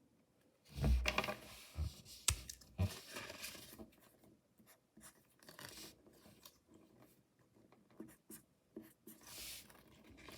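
Hands handling unboxing packaging and small toys: a soft knock about a second in, then several sharp clicks, and on-and-off rustling and scraping with small clicks.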